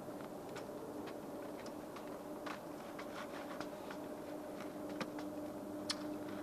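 Faint steady hum at two pitches from distant airliner engines, with scattered irregular light clicks and ticks, a sharper one near the end.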